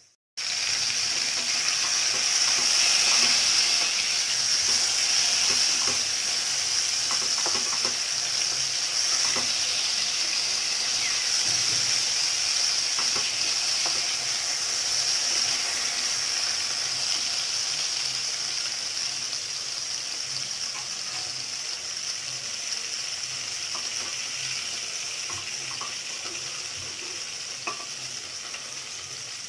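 Pointed gourd (potol) pieces sizzling as they fry in oil in a steel pot, with light scrapes and taps of a spatula turning them. The sizzle starts suddenly just after the beginning and eases a little toward the end.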